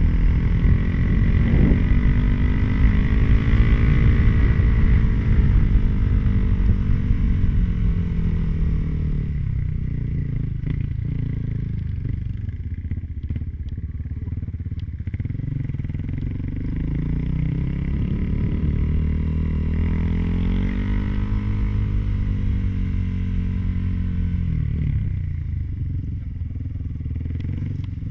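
Kawasaki KLX250's single-cylinder four-stroke engine running under way, its pitch rising and falling as the throttle is opened and closed. The revs climb over the first few seconds, then drop back to a lower, quieter pace with a few clicks and rattles in the middle. They climb again about twenty seconds in and once more at the very end.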